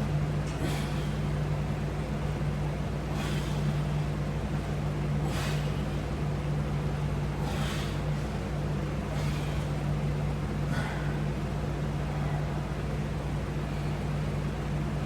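Steady low room hum with a short airy hiss every two to three seconds, in time with resistance-band pull rows.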